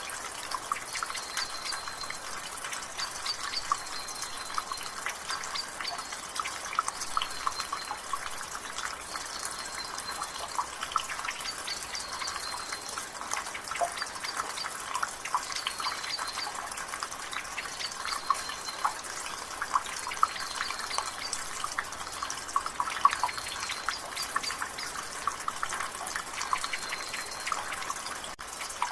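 Rain water dripping and splashing from a gutter in many quick, irregular drops over a steady drizzle. A bird in the background repeats a short, high call about once a second.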